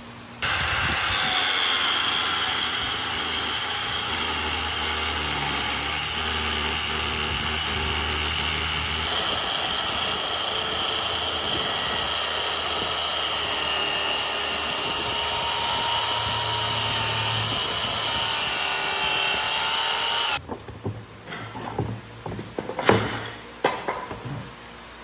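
A power tool runs steadily for about twenty seconds, a high whine over a loud rushing noise, then cuts off suddenly; a few sharp knocks and clatters follow near the end.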